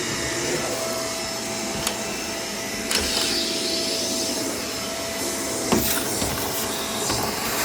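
Vacuum cleaner running steadily with a whining tone, with a few sharp clicks about two, three and six seconds in.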